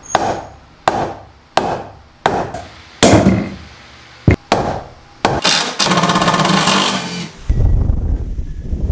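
Hammer blows on wood, evenly spaced about every 0.7 seconds, then a power tool runs for about a second and a half, followed by a low rumble near the end.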